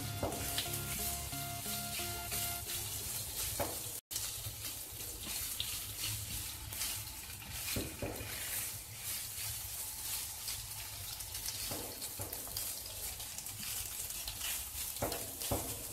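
Prawns sizzling as they fry in hot oil in a nonstick pan, stirred and scraped now and then with a spatula. The sound drops out for a moment about four seconds in.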